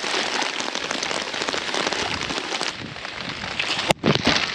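Steady rain pattering, a dense haze of fine drop ticks. It drops out briefly about four seconds in, and a dull thump follows.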